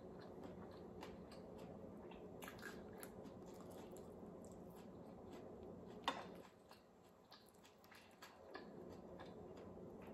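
Close-up mouth sounds of someone chewing fried fish and rice: small wet clicks and soft smacking, with one sharp click about six seconds in.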